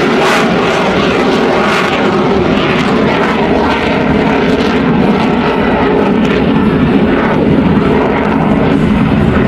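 Dassault Rafale fighter jet in flight, its twin Snecma M88 turbofan engines making a loud, steady jet noise.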